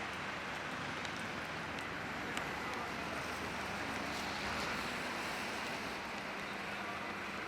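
Steady hiss of rain falling on a wet city street, with a few light ticks of drops.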